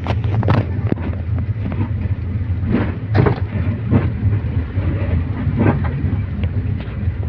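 Steady low road and tyre rumble inside a car being towed slowly downhill, with a few sharp knocks and rattles at irregular moments.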